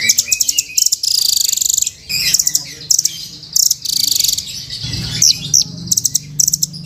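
Velvet-fronted nuthatch (rambatan) calling: bouts of rapid, high-pitched chattering trills, with a couple of short rising notes about five seconds in.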